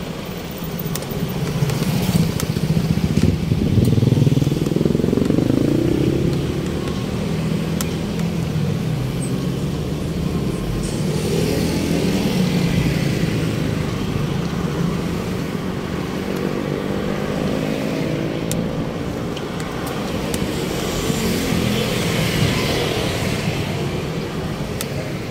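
Road traffic: motor vehicle engines running, with an engine audibly rising in pitch as it accelerates a few seconds in.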